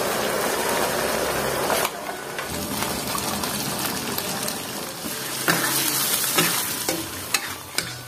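Chili sambal frying in a wok, sizzling steadily and louder for the first two seconds. Jengkol slices go into the sauce, and a metal spatula stirs it, clicking against the pan in the second half.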